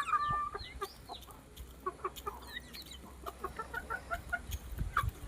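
Chicken clucking: a few short calls, then a quick run of soft, evenly spaced clucks from about three seconds in.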